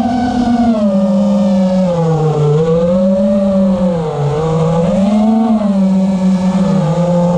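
FPV quadcopter's brushless motors and tri-blade propellers whining, the pitch swinging up and down again and again as the throttle changes.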